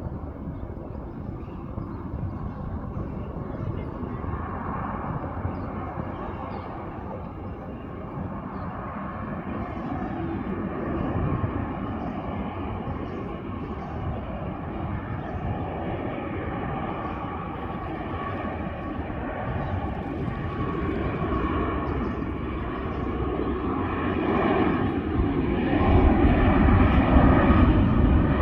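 Airplane engines running, a steady noise with a high whine of several tones on top. It grows louder and is loudest in the last few seconds.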